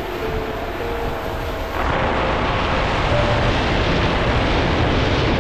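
Steady rushing, rumbling noise that jumps louder at an abrupt cut about two seconds in.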